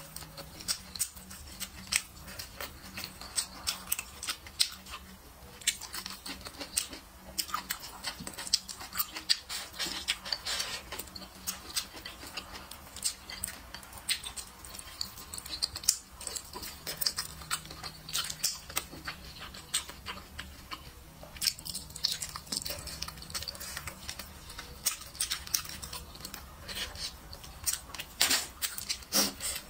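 Close-miked eating sounds: wet chewing and lip-smacking with many irregular sharp clicks, some from wooden chopsticks against a ceramic plate.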